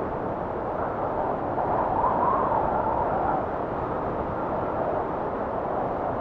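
Blizzard wind blowing steadily as a rushing noise, with a gust swelling briefly about two seconds in, its pitch rising a little before it eases.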